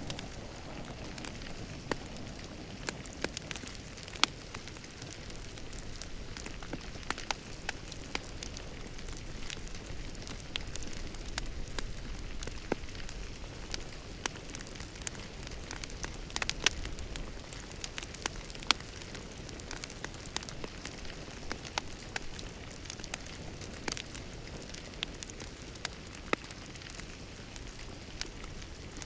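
Wood fire crackling in a fireplace: a steady soft hiss of flames with frequent irregular sharp pops and snaps, a few of them louder.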